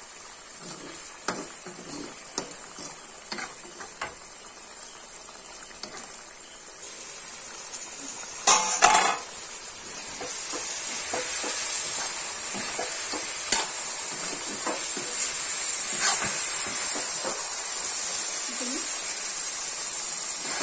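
Chicken pieces sizzling as they fry in masala in a black iron kadai, while a metal skimmer spoon stirs and scrapes them around the pan with repeated small clicks and knocks. There is a brief louder clatter about halfway through, and the sizzle gets louder after that. This is the frying stage before water is added for the gravy.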